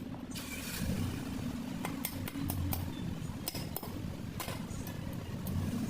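A low, steady motor rumble with a few sharp metallic clinks over it.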